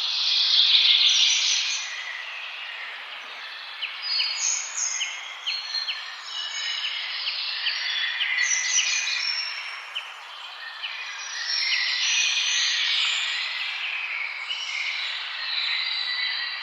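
Several songbirds chirping and singing together over a steady hiss, with rapid clicking chirps around four to six seconds in and denser bursts of song near the start and around twelve seconds.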